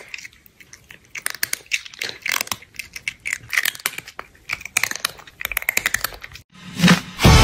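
Crunchy chewing, a quick irregular run of crisp bites and crunches. Music starts up near the end.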